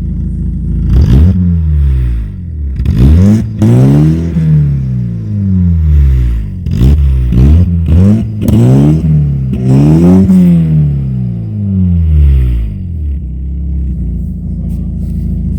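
Volkswagen MK4 Bora engine revved through its newly installed exhaust: about six quick blips of the throttle, each rising and falling in pitch, then it settles back to a steady idle near the end.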